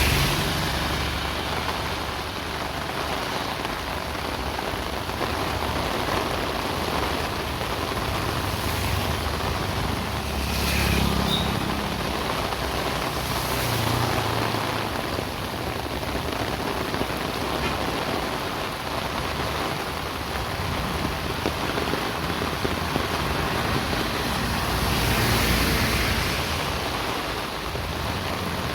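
Steady rain falling, an even hiss throughout. Three or four times, around 11, 14 and 25 seconds in, a vehicle passes on the wet road, a swell of rumble and tyre hiss that rises and fades.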